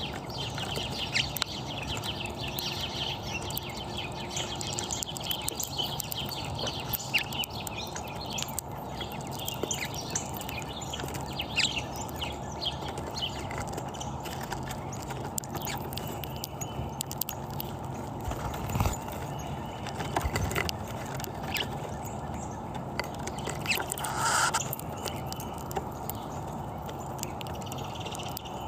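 Small birds chirping in many short, high notes over a steady background hiss, busiest in the first half. A low thump comes about two-thirds of the way through.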